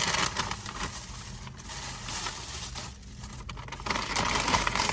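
Paper fast-food packaging rustling and crinkling as a wrapped sandwich is handled and pulled out, in irregular crackly bursts over a steady low hum.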